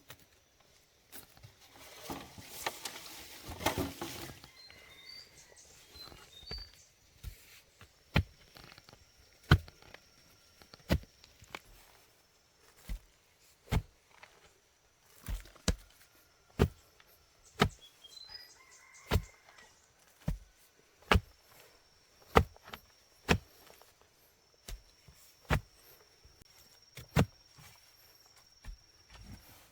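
A series of sharp knocks, roughly one a second, after a short stretch of rustling, with a few bird chirps and a faint steady high insect buzz in the background.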